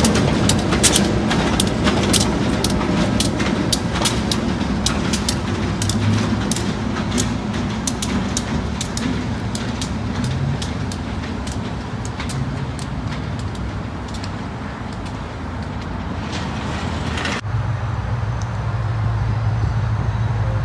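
Morristown & Erie GP7 diesel locomotive and its passenger cars passing and moving away: a low diesel rumble under rapid wheel clicks over the rail joints, the clicks thinning out as the train recedes. Near the end the sound cuts abruptly to a steady low hum.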